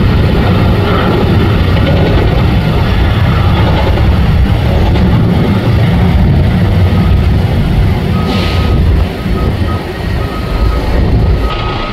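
Loud low rumble of heavy engines that eases off about nine seconds in, with a vehicle's reversing beeps starting a few seconds before and repeating to the end.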